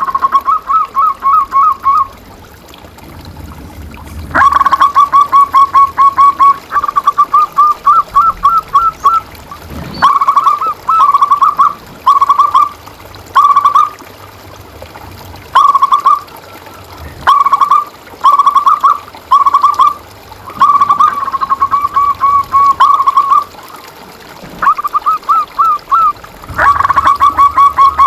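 Zebra dove (perkutut) cooing: repeated phrases of quick, clipped notes at about one pitch, some phrases short and some long runs, with brief pauses between them.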